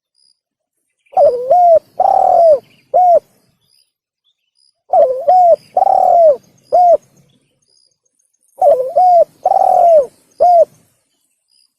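Spotted dove (tekukur) cooing loudly in three identical phrases, one every three and a half seconds or so. Each phrase is four coos with a long, falling third note.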